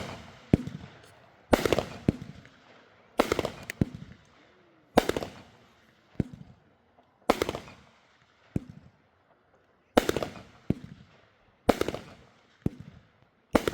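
Fireworks going off in a steady series: loud bangs about every two seconds, each ringing out briefly, with smaller pops in between.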